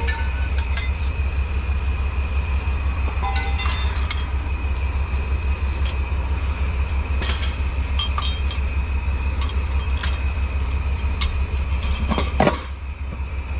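Heavy truck running with a steady low engine drone, with scattered metallic clinks and rattles over it. About twelve and a half seconds in the drone briefly drops and a short low sweep is heard.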